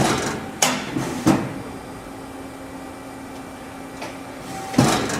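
1993 Amada FBD-8025E 80-ton CNC hydraulic press brake running, with a steady hum from its hydraulic pump and sharp clunks as the ram cycles: three in the first second and a half, another near the end.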